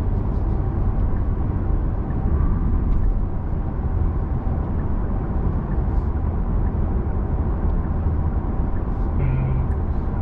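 Steady road and wind noise inside the cabin of a Genesis G80 sedan cruising at highway speed, a constant low rumble of tyres with a hiss above it.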